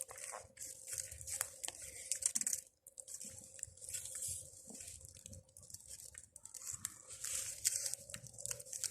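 Campfire of garden prunings burning low, crackling with many small irregular pops. A faint steady hum sits underneath.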